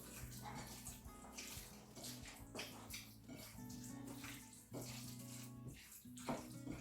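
Wet squelching and rubbing of hands mixing oiled, spiced chicken pieces in a bowl, in short repeated bursts, over soft background music.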